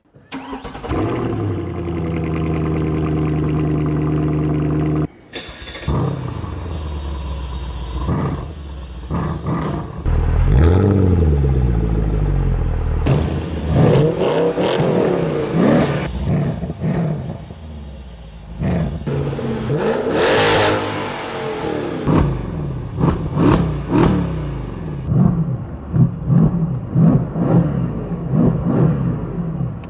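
Mercedes-AMG V8 exhaust in several cut-together clips. The engine holds a steady high rev for about five seconds, then revs and accelerates with rising and falling pitch. It ends with a run of sharp short bangs and pops in the last few seconds.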